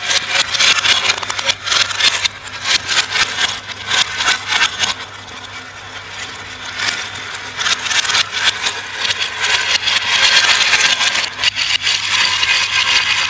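Glass marbles rolling and clattering down a marble run: a dense, irregular stream of clicks over a steady rolling rattle, swelling louder in the second half.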